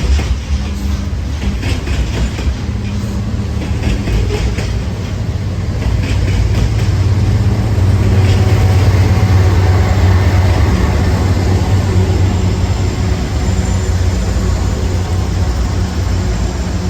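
Norfolk Southern freight train rolling past: a steady low rumble of the train with wheel clicks over the rails in the first few seconds, growing louder about six seconds in.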